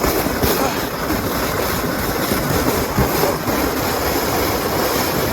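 Sled sliding fast down an icy, sleet-crusted slope: a steady scraping rush.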